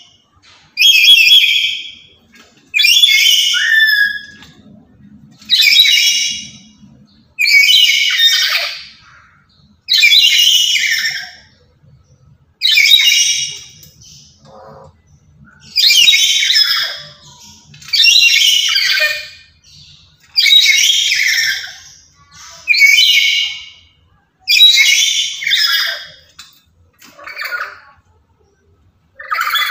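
Black-capped lory giving loud, harsh squawking calls over and over, one about every two seconds.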